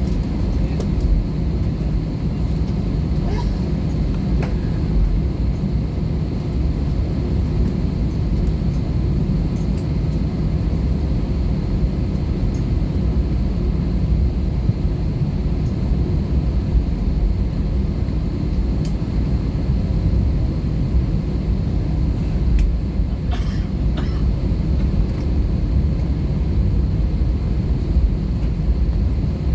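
Cabin noise of an Airbus A320-214 taxiing, its CFM56 engines at idle: a steady low rumble with a faint steady high whine. A few light clicks and knocks come about three to five seconds in and again near twenty-four seconds.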